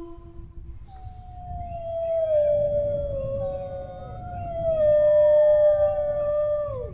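Dogs howling: one long drawn-out howl starts about a second in, slides slowly down in pitch and drops off at the end, while a second, higher howl overlaps it partway through.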